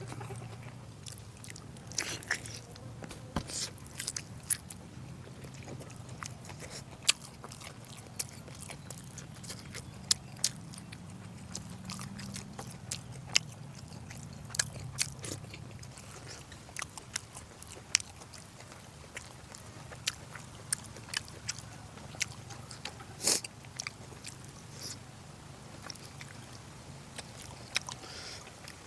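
A person eating close to the microphone: chewing, with many short sharp clicks and smacks scattered throughout, over a low steady hum.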